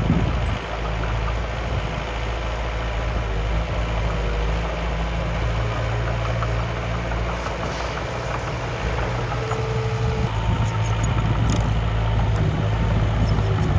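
Steady engine-like idling hum from a miniature construction machine, with a few light clicks and rattles in the second half.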